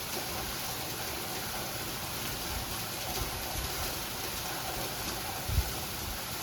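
Heavy sleet falling steadily: a continuous even hiss of ice pellets hitting the ground and surrounding surfaces, with a brief low thump about five and a half seconds in.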